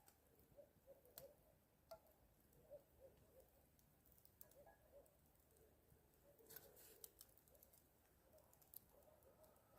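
Near silence with faint, scattered clicks and ticks, a few more of them together about two-thirds of the way in.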